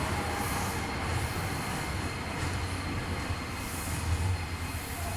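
Nagoya subway N3000-series electric train running in along the platform and slowing to a stop: a steady low rumble with faint, thin squealing tones from the wheels and brakes.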